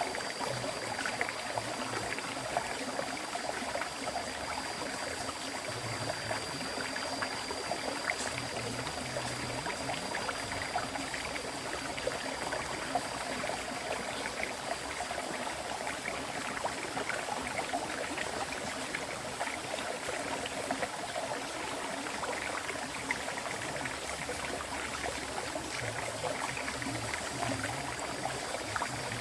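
Clear river stream flowing steadily, a continuous babble and splash of running water.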